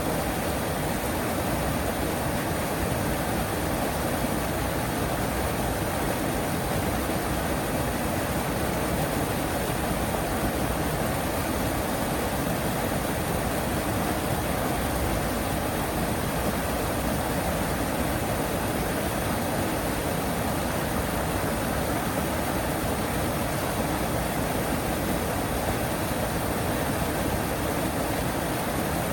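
Steady, even outdoor rushing noise with no distinct duck calls or other events.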